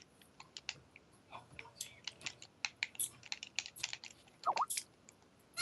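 Computer keyboard typing: quick, irregular clacking keystrokes, with a brief pitched chirp that glides in pitch about four and a half seconds in.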